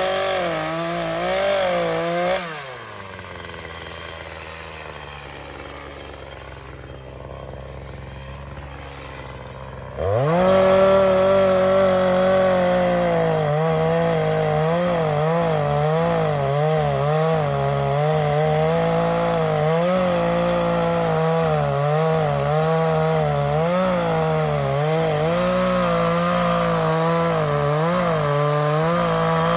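Chainsaw running at high speed, dropping back to idle after about two seconds, then revving up sharply about a third of the way in and running at full throttle with a wavering pitch, as it does when it bogs and recovers while cutting through wood.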